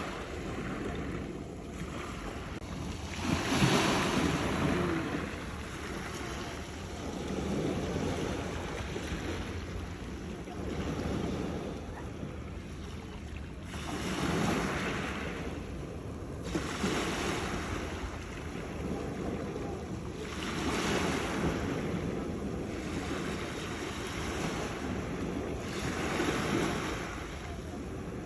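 Sea waves breaking against rocks, in repeated surges every few seconds over a steady wash of surf, with wind buffeting the microphone.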